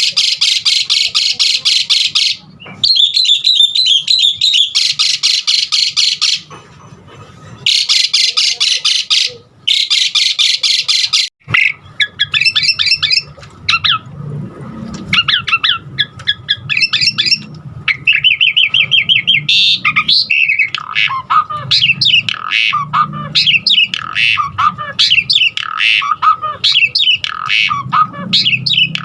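Asian pied starling (jalak suren) singing a varied song: long blocks of fast, harsh chattering in the first ten seconds or so, broken by short pauses, then a run of varied whistled notes and trills.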